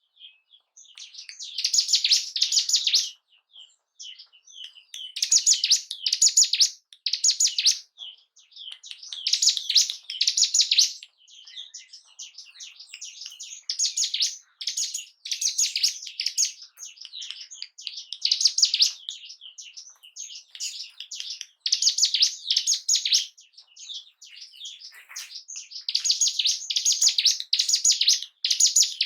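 Ciblek gunung, a mountain prinia, singing: phrases of rapid, high chirping notes a second or two long, repeated after short pauses.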